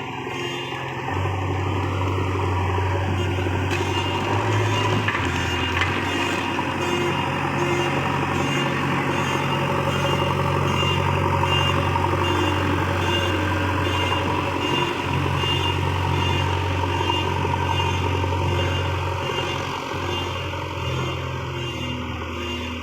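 Diesel engine of working earthmoving machinery running steadily, its pitch stepping up and down several times as throttle or load changes.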